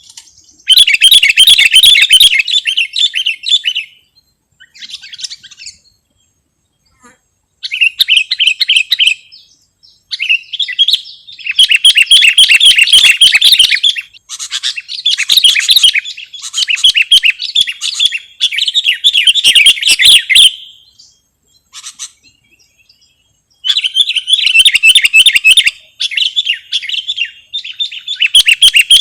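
Sooty-headed bulbul (kutilang) singing: bursts of rapid chattering phrases, each one to three seconds long, with short pauses between them and two longer breaks.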